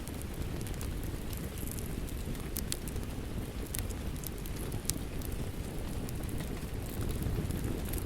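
Wood fire crackling, with scattered sharp pops over a steady, low rushing rain.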